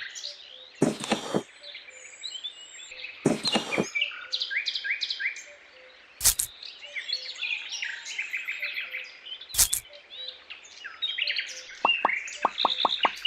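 Many small birds chirping and twittering, broken by two short rasping noises, two sharp knocks and a quick run of ticks near the end.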